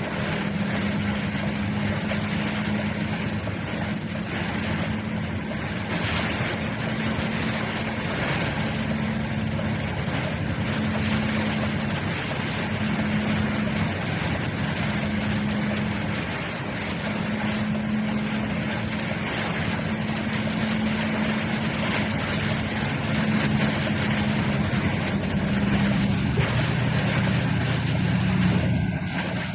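A vehicle driving through heavy rain: a steady low drone from the engine and tyres under a constant hiss of rain and spray on the wet road.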